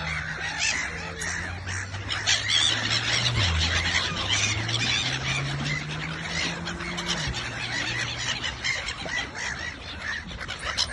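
A flock of feeding birds calling over one another, with dense overlapping short calls. Underneath runs a low steady hum that drops in pitch about three and a half seconds in, rises again, and cuts off a little after seven seconds.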